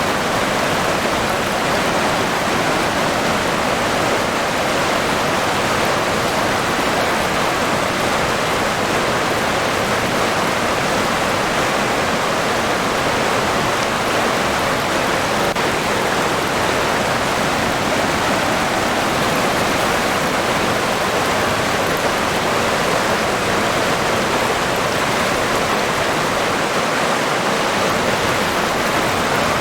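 River water rushing and babbling steadily, an even continuous wash of flowing water.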